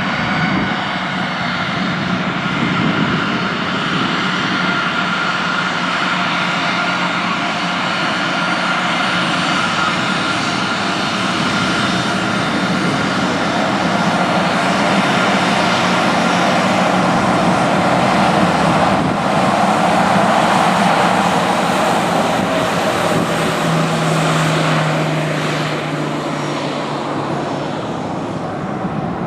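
Aircraft engines running steadily with a whining tone over a broad rush, growing louder to a peak about two-thirds of the way through and then easing off.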